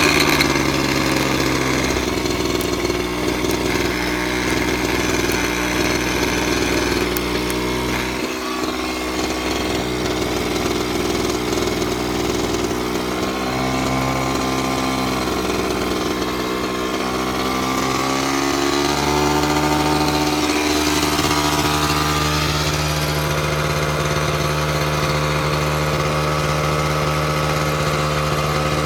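Honda MBX50's small two-stroke single-cylinder engine idling steadily after a start-up check. Its speed drifts a little, settling slightly higher about two-thirds of the way through.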